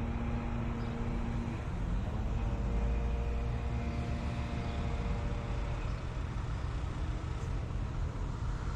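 Car driving: a steady low rumble of road and engine noise, with a humming engine note that changes pitch about a second and a half in and fades out a few seconds later.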